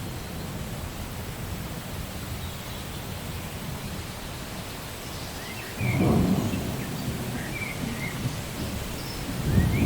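Steady rain with thunder: a low rumble breaks in suddenly about six seconds in and slowly fades, and a second rumble swells near the end.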